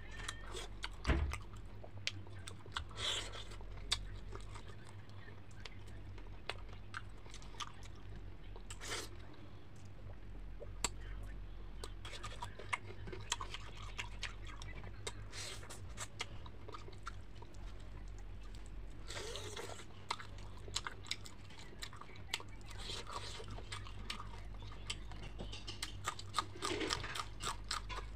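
A person chewing and biting into fried fish, with many small wet mouth clicks and crunches scattered throughout, over a steady low hum.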